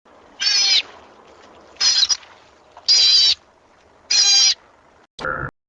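An animal calling four times, short high-pitched cries about a second apart, then a shorter, lower call that cuts off near the end.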